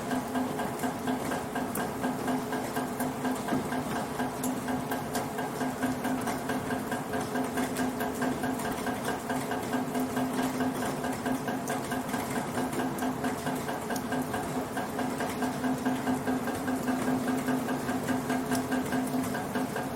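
Rainwater in a gutter: a fast, steady pattering with a hollow, ringing tone, with scattered sharp ticks of single drops.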